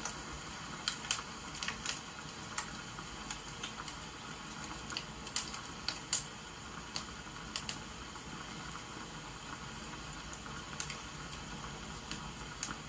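Crackling wood fire: scattered, irregular sharp pops over a steady hiss of rain, with most of the pops in the first half.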